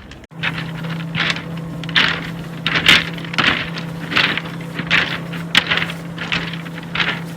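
Footsteps crunching on beach stones at a walking pace, one step about every half second to second, over a steady low hum.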